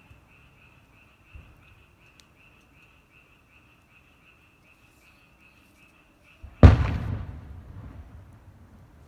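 A single firework boom about two-thirds of the way in, dying away over a couple of seconds. Under it, a steady high pulsing chirp from night animals.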